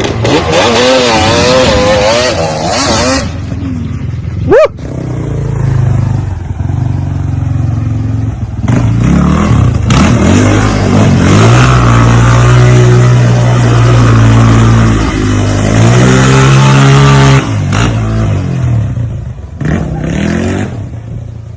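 Off-road vehicle engine revving up and down repeatedly, with a sudden sharp knock about four and a half seconds in and a long stretch held at high revs in the middle.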